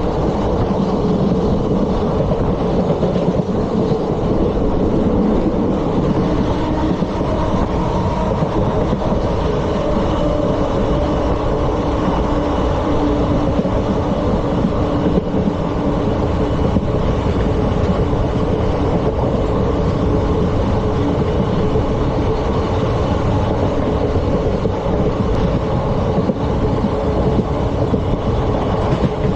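Indian Railways ICF passenger coach running along the track at speed: a steady rumble of wheels on rails, with a few faint held tones and no distinct wheel-joint clicks.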